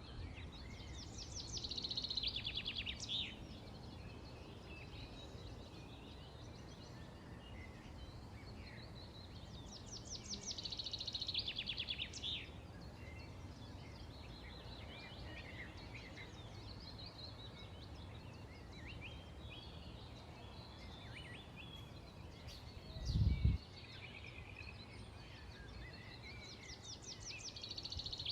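Songbirds singing: a rapid, high trill lasting about two seconds comes three times, at the start, about ten seconds in and near the end, with scattered chirps between, over a steady low background rumble. A brief low thump about 23 seconds in is the loudest sound.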